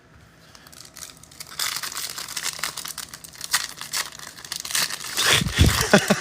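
Foil wrapper of a trading-card pack being torn open and crinkled. The crackling starts about a second and a half in, and there is louder handling near the end.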